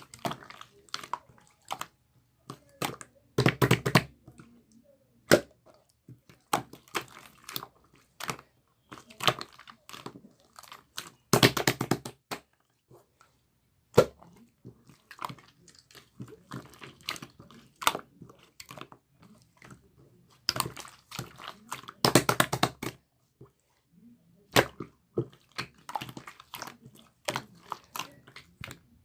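Hands squishing and pressing slime: wet sticky clicks and small popping air pockets, with denser runs of crackling pops about four seconds in, around twelve seconds and about twenty-two seconds in.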